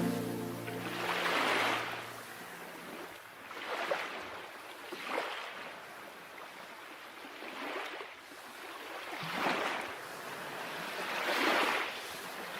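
Small waves breaking and washing on a shore, a swell of surf every couple of seconds.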